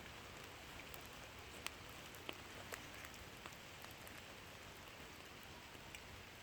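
Campfire burning, its wood crackling: a faint steady hiss broken by scattered sharp pops, the clearest about a second and a half in.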